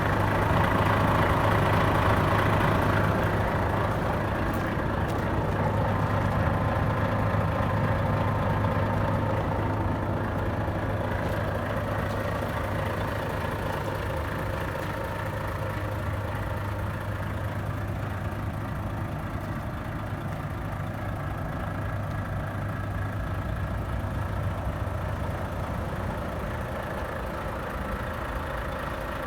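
Volvo FH500 truck's 13-litre straight-six diesel idling steadily. It is a little louder in the first few seconds and then slightly quieter.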